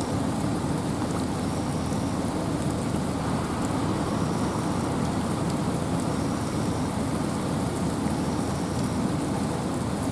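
Steady rain falling in a forest, with wind: an even, unbroken wash of noise that is heaviest low down, with faint ticks of individual drops.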